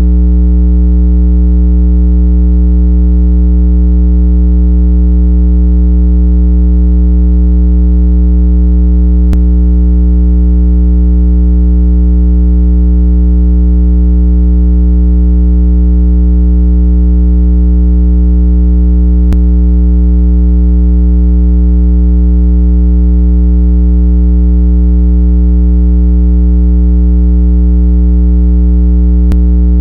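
Steady, loud, low electronic water-eject tone, a buzzy hum rich in overtones meant to shake water out of earbud and phone speakers. Faint clicks come about every ten seconds.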